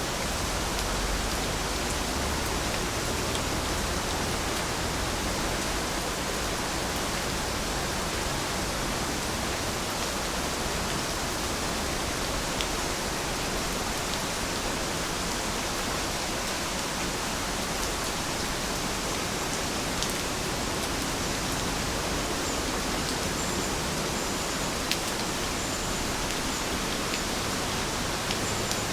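Heavy rain falling steadily, an even hiss with occasional sharper drop taps.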